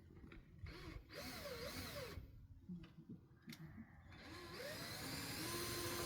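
Power drill motor running: a short run about a second in with its pitch wavering under load, then near the end it spins up to a steady whine.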